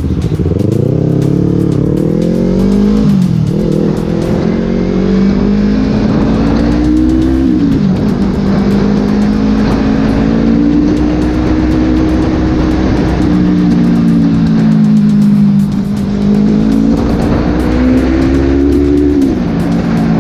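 Yamaha R3 motorcycle engine, a parallel twin, fitted with a freshly repaired exhaust silencer, revving. Its pitch climbs and then drops sharply several times, with a long steady stretch in between.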